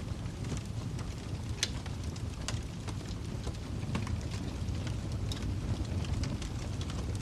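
Fireplace fire crackling: irregular sharp pops and snaps over a steady low rumble, with one louder pop a little over a second and a half in.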